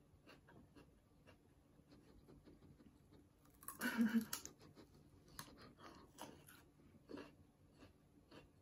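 A person chewing and biting raw celery, with faint, scattered crunching clicks and one louder burst about four seconds in.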